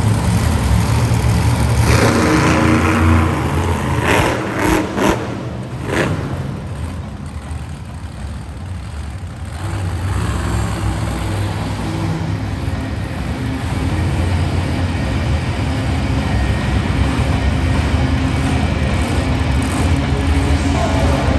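Monster truck engines running and revving in an arena, with a few sharp knocks about four to six seconds in. The engine noise drops back for a few seconds, then builds again.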